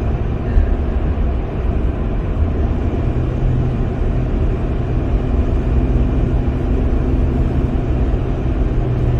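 Car driving at speed on a country road, heard from inside the cabin: a steady low rumble of road and engine noise, with a steady low hum joining about three seconds in.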